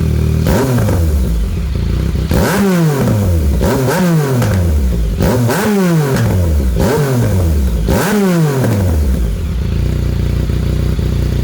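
Yamaha MT-09 three-cylinder engine through a 200 mm Black Widow aftermarket exhaust, revved in a string of sharp throttle blips, each rev dropping quickly back toward idle. It settles to a steady idle for the last couple of seconds.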